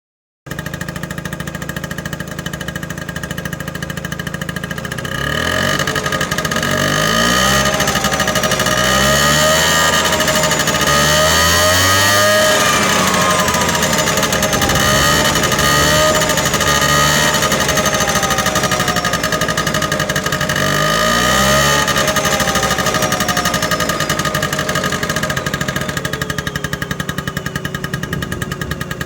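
Vespa PK 50 XL Plurimatic scooter's 50 cc two-stroke single-cylinder engine running at idle through its exhaust. It is revved up and down several times from about five seconds in, and again briefly around twenty seconds, then settles back to idle near the end.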